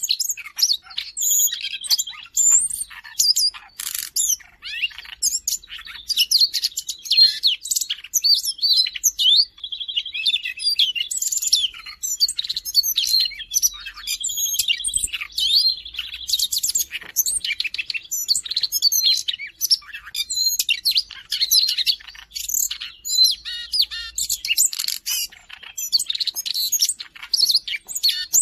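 Siberian rubythroat singing continuously: a rapid, varied warble of high chirps and whistles, broken every few seconds by a short buzzy trill.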